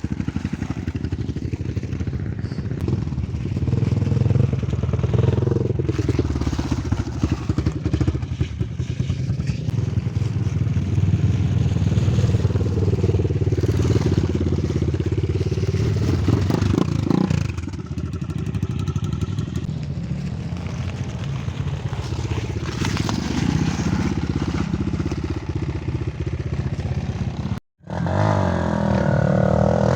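Enduro motorcycle engine running and revving off-road, its note rising and falling as the throttle is worked. The sound cuts out briefly near the end, then an engine comes back with sweeping revs.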